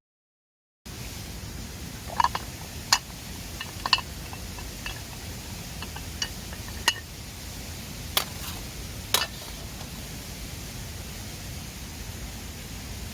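Steady rush of a mountain river, with about seven sharp, short clicks scattered through the middle. The sound drops out briefly at the very start.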